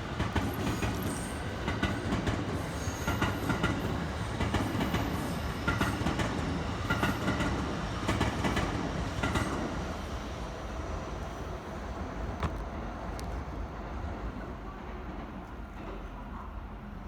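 Train running through a station, its wheels clacking over the rail joints over a heavy rumble, then fading away after about ten seconds.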